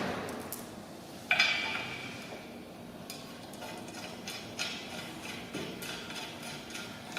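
Metal clinks and light knocks from bolts and a spanner being handled as bolts are fitted. The loudest is a single ringing clank about a second in, followed by scattered smaller clicks.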